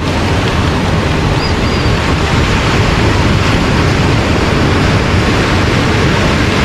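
Ocean surf washing on the beach, with wind buffeting the microphone: a steady, loud wash of noise with a low rumble.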